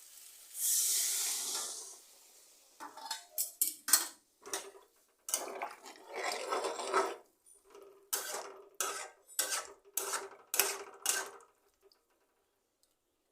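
A metal spoon stirring in a metal cooking pot, scraping and clinking against it about a dozen times with a faint ringing of the pot, after a brief hiss near the start.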